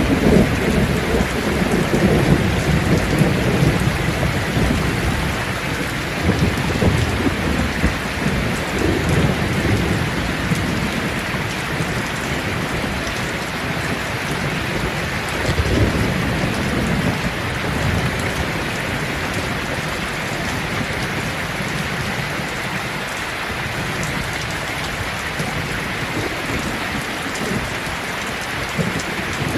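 Steady rain falling on leaves, with low rolls of thunder at the start fading over the first few seconds and another roll about halfway through.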